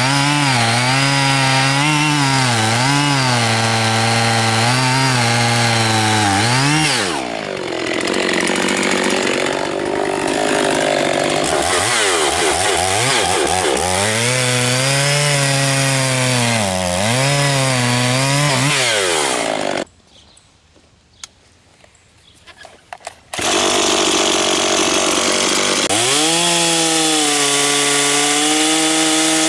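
Two-stroke chainsaw cutting wood, its engine pitch repeatedly sagging under load and picking back up. About twenty seconds in the sound drops away for roughly three seconds, then the saw runs again.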